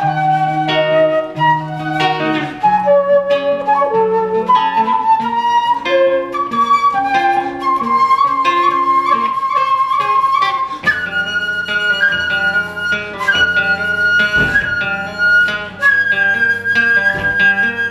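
Live band music, instrumental with no singing: a flute plays a melody that climbs to a long held note, over plucked guitar. About eleven seconds in, the texture changes and a higher line and lower notes come in.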